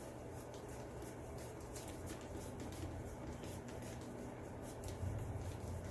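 Faint, irregular light clicks and handling noises from small parts and tools being handled during reassembly, over a low steady hum.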